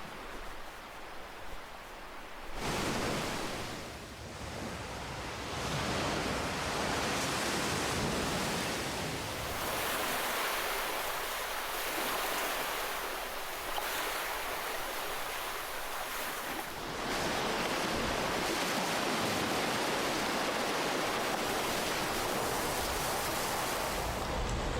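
Ocean waves washing onto a shore: a continuous rush of surf that swells and eases, quieter at first, then surging about two and a half seconds in, again around six and ten seconds, and louder still from about seventeen seconds on.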